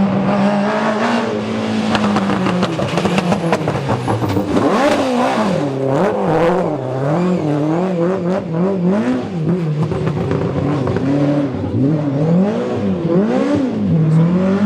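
Rally car engine revved hard, its pitch rising and falling over and over in quick swings as the driver goes on and off the throttle, with sharp pops in between.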